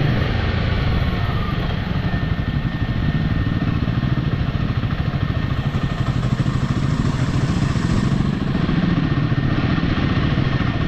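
Royal Enfield motorcycle engine running steadily as it is ridden along a dirt trail, with an even rush of wind and tyre noise over it.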